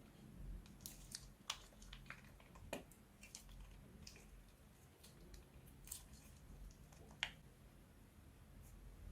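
Faint, scattered sticky clicks and small crackles of slime being handled and squeezed, with one sharper click about seven seconds in.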